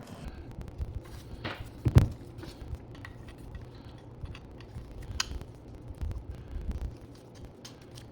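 Clicks and knocks of small parts being handled, with one sharp knock about two seconds in, over a steady low hum.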